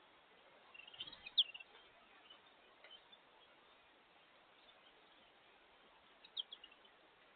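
Small songbirds chirping: a quick cluster of short, high chirps about a second in and another near the end, over a faint steady hiss.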